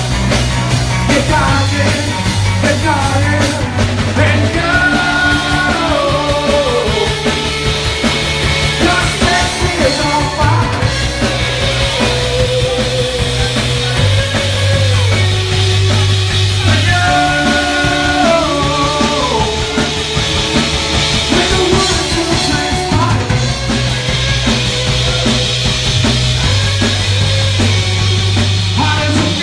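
A rock band playing live: a sung melody over steady bass notes and drums.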